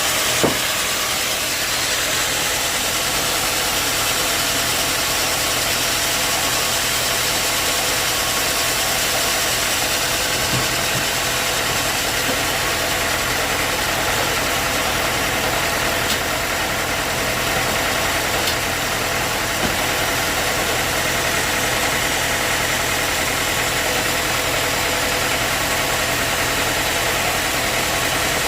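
Sawmill machinery running steadily: a motor drone under a constant high hiss, with a sharp knock about half a second in.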